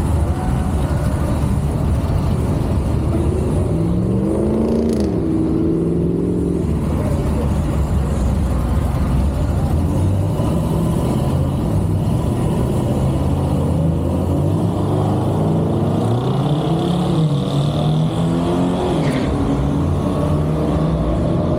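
Car engine under hard acceleration on a drag strip run, its pitch climbing and dropping back as the transmission shifts, twice over.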